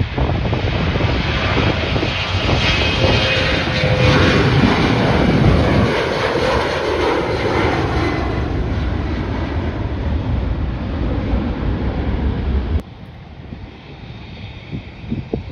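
Airliner's engines passing close by, loudest about four to six seconds in, the engine tone falling in pitch as it goes past. The sound drops off abruptly near the end.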